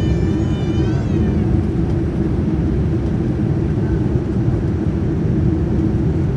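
Steady, loud low rumble of a vehicle in motion, heard from inside. A brief pitched sound rises during the first second and then stops.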